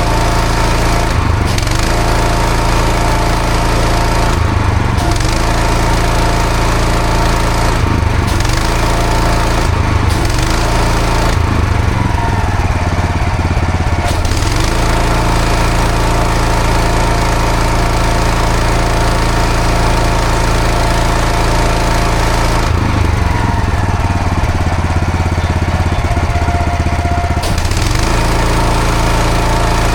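Engine-driven pressure washer running steadily with the hiss of the water jet on block paving. The spray hiss cuts out briefly several times, twice for a few seconds, as the jet pauses while the engine keeps running.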